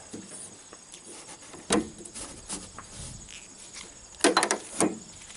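Hooks of a rubber tarp strap knocking and clattering against the truck's hood as it is hooked on and pulled tight: a sharp knock, a few light ticks, then a quick burst of clatter and one more knock.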